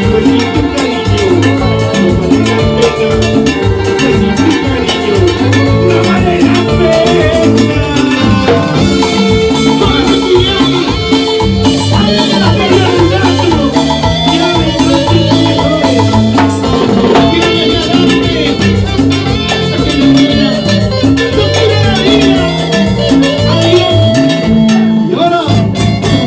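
A band playing salsa-style Latin music with a steady, driving beat.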